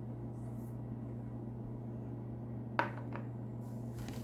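Small hard objects being handled: one sharp click near the end and a fainter one just after, over a steady low electrical hum.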